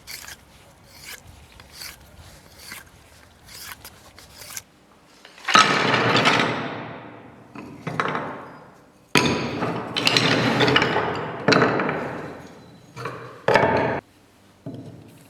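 Hand tool working wood in repeated strokes: light, quick strokes at first, then about five seconds in a run of louder, longer rasping strokes.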